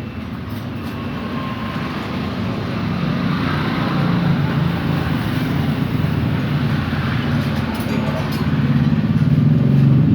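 A motor vehicle engine running, growing steadily louder.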